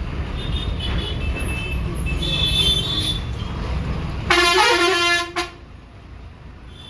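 Steady rumble of a moving bus, cut across about two-thirds of the way through by one loud blast of a vehicle horn lasting about a second. After the horn the rumble drops to a quieter level.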